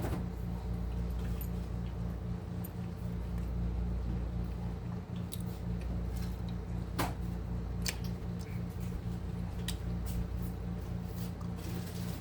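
Close-up chewing and mouth sounds of someone eating a chili dog, with a few sharp clicks, over a steady low electrical hum.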